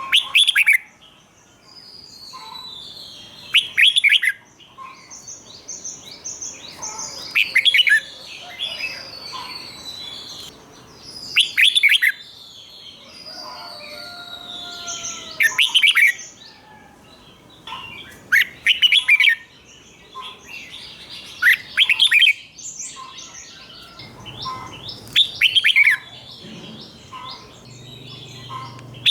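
Red-whiskered bulbul singing loud, short song phrases about every three to four seconds. Softer chirps and twittering fill the gaps between the phrases.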